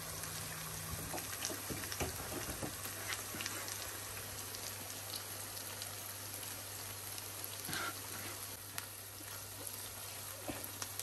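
Potato and egg keema sizzling in a frying pan, a steady hiss dotted with small crackles and pops, over a steady low hum.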